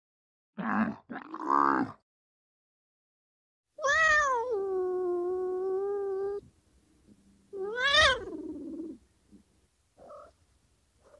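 An animal crying out several times: two short calls, then a long steady call held for over two seconds, then a call that rises and falls in pitch.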